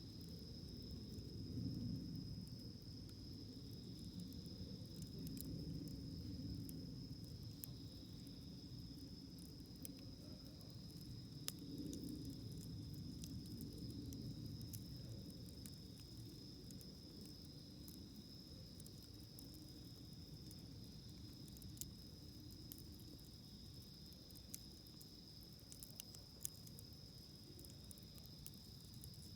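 Wood campfire burning, with a low rumble and scattered sharp crackles and pops, over a steady high insect trill.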